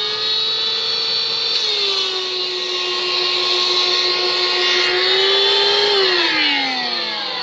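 Shop vac motor whining steadily, its pitch rising when the hose is blocked and dropping again when it is freed, the sign a vacuum gives when it clogs. Near the end the pitch falls away steadily as the motor spins down.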